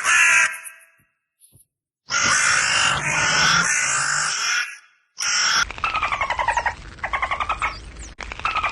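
Animal calls in quick succession: a loud harsh call lasting a couple of seconds, then rapid pulsed calls repeated in bursts of about a second, with faint high chirps over them.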